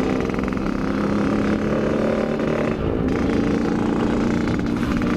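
Yamaha RX-King's two-stroke single-cylinder engine running steadily under way, with a brief dip in the note about three seconds in.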